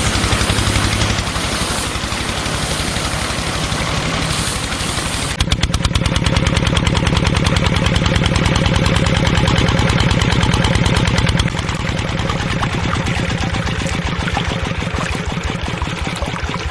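Small motor of a DIY model tractor or threshing machine running steadily with a fast, even mechanical chatter. About five seconds in the sound changes abruptly, turning lower and more strongly pulsed, and it shifts again around eleven seconds.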